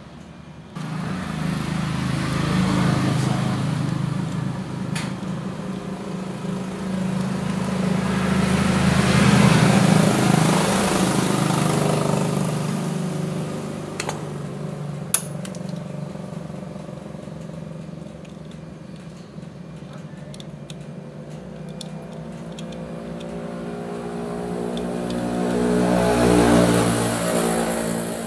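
Motor vehicle engine noise, swelling to a peak about ten seconds in, fading, then rising again near the end as the engine pitch shifts. A few sharp clicks sound in between.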